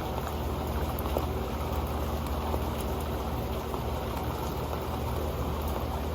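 Steady rain falling onto an old metal pan, a dense patter of drops with scattered sharper ticks.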